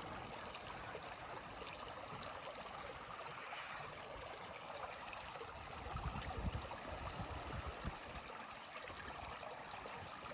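Steady rushing of a river flowing past, with a few soft low bumps about six seconds in.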